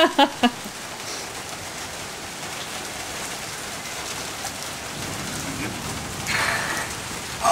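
Heavy rain pouring steadily, an even dense hiss, with a brief louder swell near the end.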